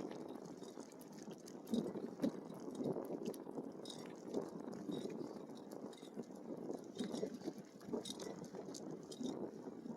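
Bicycle tyres rolling over a rough dirt trail, a steady crackle and crunch with many small clicks and clinks from the bike rattling.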